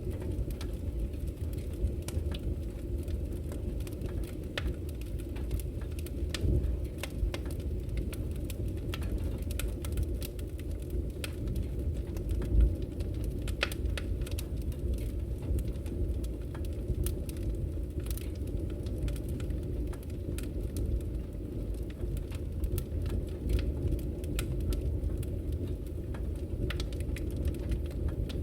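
Wood fire crackling in a fireplace: irregular sharp snaps and pops over a steady low rumble, with one louder pop about halfway through.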